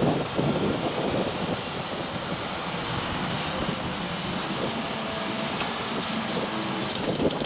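Diesel engine of a heavy road-construction machine running steadily, with wind noise on the microphone.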